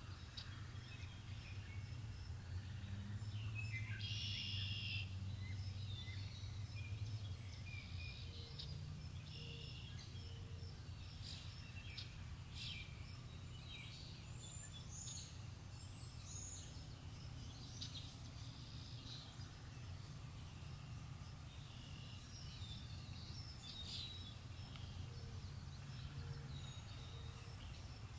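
Rural outdoor ambience: several songbirds chirping and calling on and off, over a faint low steady rumble.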